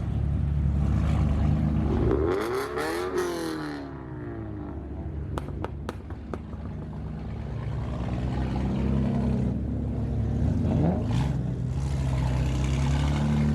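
Car engines running and revving as cars accelerate away, with a pitch sweep a couple of seconds in, a few sharp cracks around the middle and another rev near the end.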